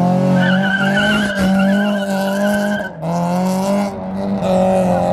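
Front-wheel-drive car doing a burnout: engine held at high revs with a warbling tire squeal over it for the first three seconds. The revs drop briefly just before three seconds and again near four, then climb back.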